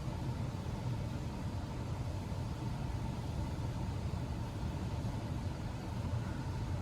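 Steady car engine and road noise heard from inside a moving car's cabin.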